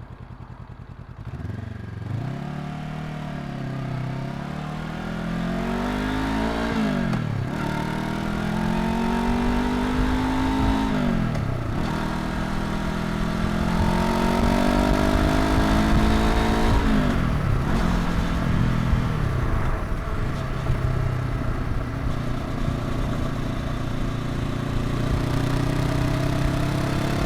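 Honda NX500's 471 cc parallel-twin engine accelerating through the gears: the revs rise and drop sharply at three upshifts, about 7, 11 and 17 seconds in, then settle to a steady cruise, with wind and road noise beneath.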